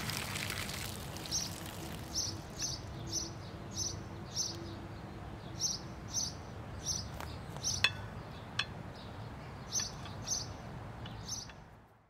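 A small bird chirping over and over, short high chirps about twice a second, over a faint outdoor background. In the first second there is the tail of water spilling from the tipped bird bath onto the mulch, and about eight seconds in there are a couple of sharp clicks.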